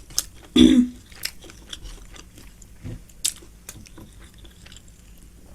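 A person chewing a mouthful of biryani: scattered wet mouth clicks and smacks, with a short hum just after half a second.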